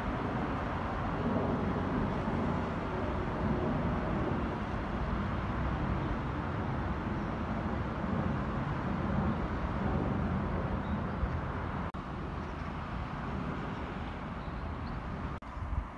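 Steady rumble of a red electric train pulling away into the distance, mixed with road traffic noise, with a brief break about twelve seconds in.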